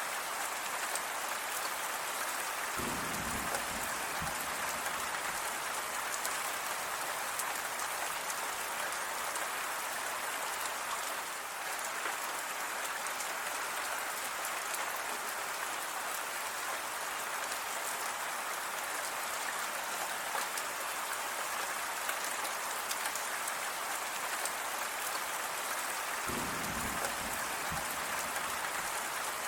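Steady rain pattering on surfaces, a dense even hiss full of fine drop ticks. A brief low rumble comes about three seconds in and again near the end.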